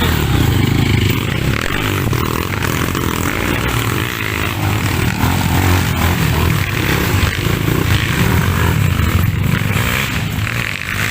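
Dirt bike engine running, with the revs and loudness wavering, as on a trail ride.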